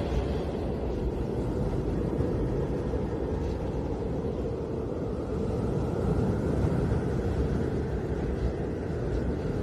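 Snowstorm wind blowing as a steady, low rushing rumble, with a faint higher whistle swelling in over the second half.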